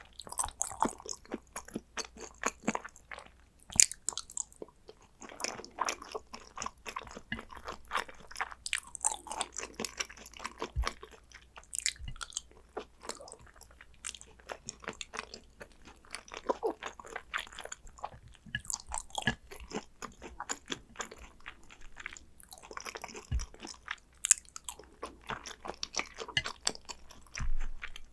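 Close-miked chewing of hanwoo yukhoe, Korean raw beef tartare: a steady stream of irregular wet mouth clicks and bites, with a few louder snaps.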